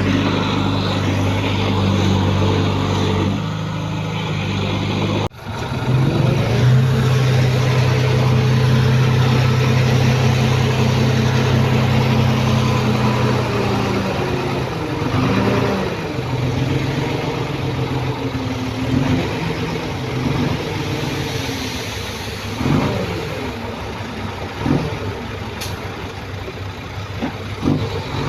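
Heavy diesel engine of earthmoving machinery running. It breaks off abruptly about five seconds in and resumes at a different pitch, then revs up and down in the second half.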